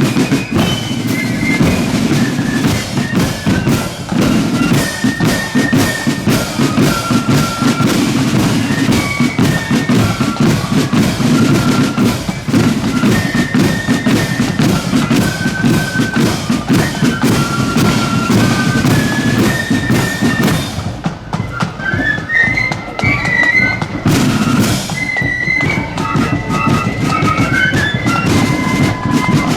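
Marching flute band playing: flutes carry the melody over a bass drum and snare drums. About two-thirds of the way through the drums drop out, leaving the flutes alone for a few seconds, then a drum stroke sounds and the drums come back in.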